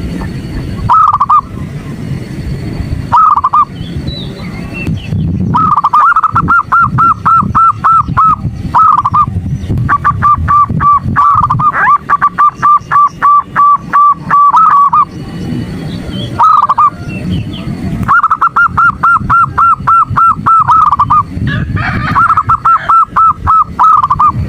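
Zebra dove (perkutut) calls: a few single notes, then long rapid trains of repeated short notes in bursts of several seconds each, given as a female calling to provoke a male. A steady low rumble lies under the calls.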